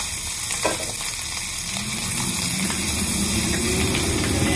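Egg fried rice sizzling and frying in a very hot pan while being stirred, with a single sharp knock about a second in. In the second half a low rumble that rises in pitch builds up and grows louder under the sizzle.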